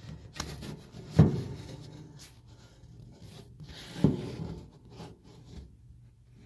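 Handling noise: rubbing and scraping, with two sharp knocks, one about a second in and another about four seconds in.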